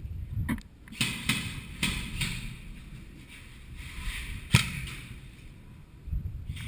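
Airsoft gun shots: several sharp single cracks at uneven intervals, the loudest about four and a half seconds in, with faint rustling between them.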